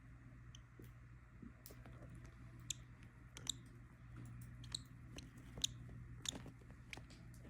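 Lovebirds nibbling and biting with their beaks: faint, irregular sharp clicks and cracks, a few of them louder, over a low steady hum.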